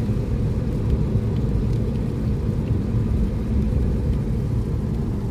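A thunderstorm with heavy rain: a loud, steady low rumble.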